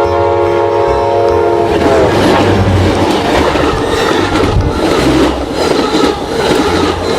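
Train sound effect: a train horn sounding a steady chord that cuts off about two seconds in, followed by the rhythmic clickety-clack of train wheels on rails.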